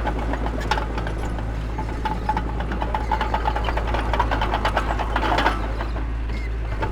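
Heavy diesel earth-moving machinery running with a steady low drone, overlaid by irregular rattling and clanking.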